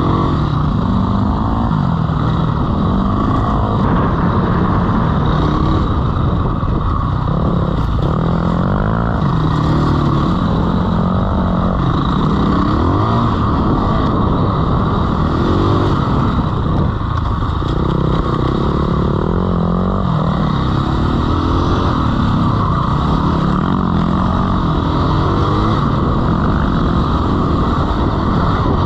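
Dirt bike engine revving up and down repeatedly as the bike rides through sand, its pitch rising and falling every second or two.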